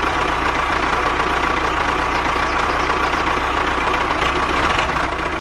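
Tractor engine running steadily at idle, then cutting off abruptly at the very end.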